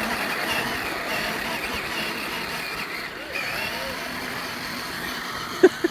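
Child's battery-powered ride-on toy Jeep driving, a steady motor and wheel noise, with faint voices in the background and a short vocal sound near the end.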